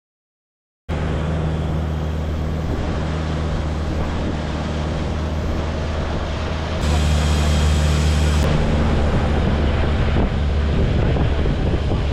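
Long-tail boat engine running steadily under way, with wind buffeting the microphone; it cuts in after a second of silence and gets louder about seven seconds in.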